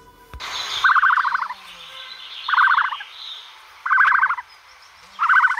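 Bird calls: a short, harsh trilled call repeated four times, about every second and a half.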